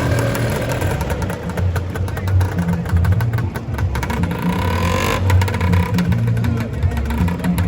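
A Lambretta scooter's two-stroke engine pulling away, fading over the first second, as music with a steady bass beat takes over.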